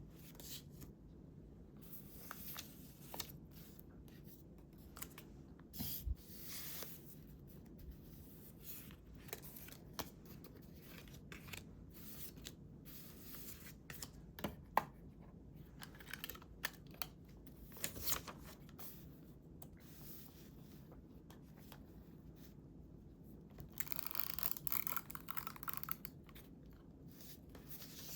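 Paper being handled for scrapbooking: a run of short, crisp paper strokes and small taps, cut and torn by hand, with a longer stretch of paper noise near the end.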